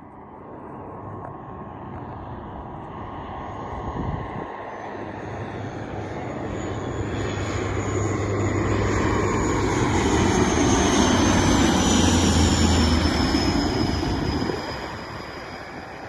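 An airplane passes close by. Its engine noise builds over about ten seconds to a loud peak, and a high whine falls in pitch as it goes past. The sound drops away sharply near the end.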